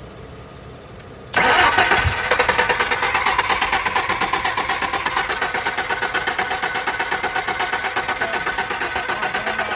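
Car engine cranking on its starter motor without catching, starting about a second and a half in with a steady, evenly pulsing churn. It is a crank-no-start: the ignition checkers show only a weak ignition pulse.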